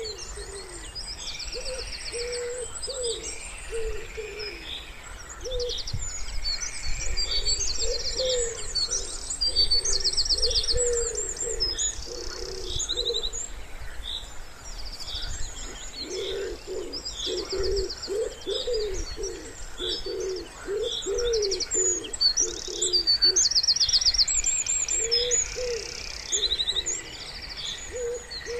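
Wood pigeon cooing in repeated low phrases, densest through the middle, over a chorus of small songbirds chirping and trilling throughout.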